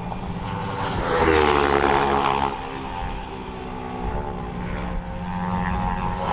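Racing motorcycles at high revs passing on the track, one going by about a second in with its engine note dropping in pitch; another bike approaches, growing louder near the end.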